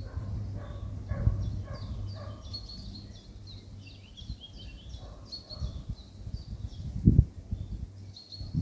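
Small forest birds chirping in quick runs of short high notes, over a low steady rumble. A dull thump about seven seconds in is the loudest sound.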